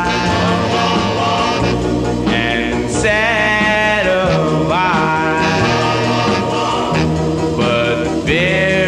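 Doo-wop vocal group singing in harmony over a mid-tempo band backing with a steady bass line.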